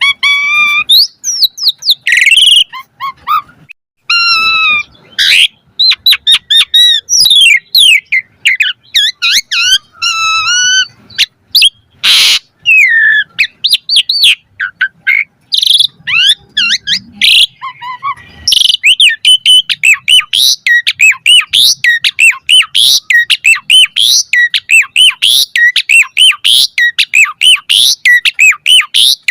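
Asian pied starling (jalak suren) singing a loud, varied song of whistles, chatters and sharp clicks. About two-thirds of the way in, it breaks into a fast string of repeated whistled notes.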